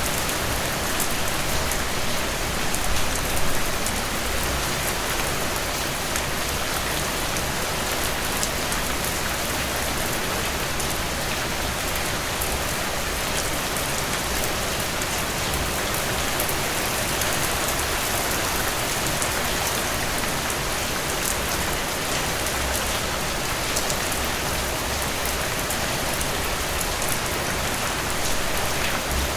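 Heavy rain falling steadily on a surface, a dense even hiss with many fine drop ticks.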